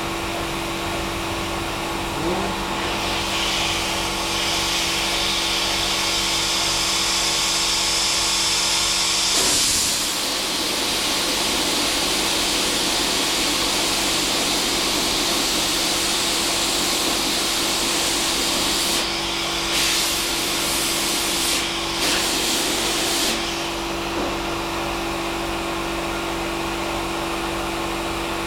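Gas torch flame hissing steadily while heat-shrinking a sheet-metal fender patch, over a constant hum; the hiss strengthens about nine seconds in and breaks off in a few short gaps near the end.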